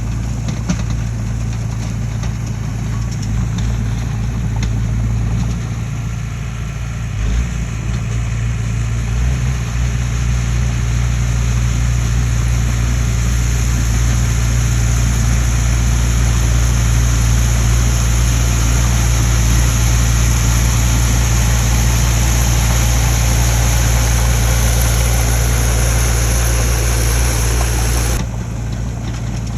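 An engine running steadily with a deep, even hum. About a second before the end it abruptly becomes quieter and loses its high hiss.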